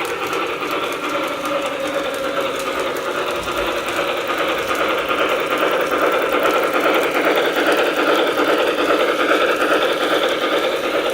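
Lionel O-gauge model train running steadily on track: a small electric motor whirring, with the wheels rattling over the rails.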